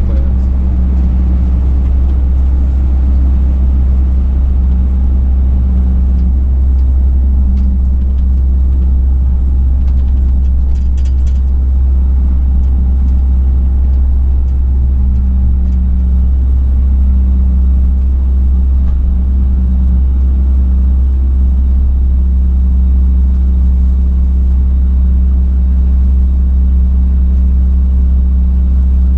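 A truck driving, heard from inside the cab: a steady low engine and road rumble with an engine hum that wavers in pitch in places and holds steady near the end.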